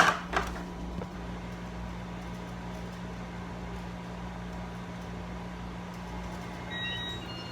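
Air conditioner running steadily with its fan turned up, a constant hum and airy noise. Two sharp clicks at the very start, and a few faint short high tones near the end.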